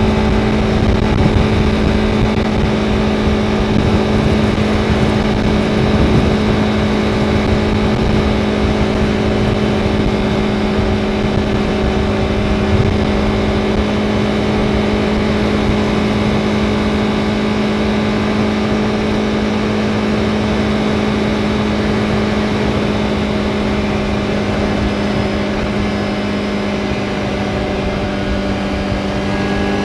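Honda CBR Fireblade's inline-four engine, new and still in its break-in period, running at a steady engine speed while riding, with wind buffeting the microphone.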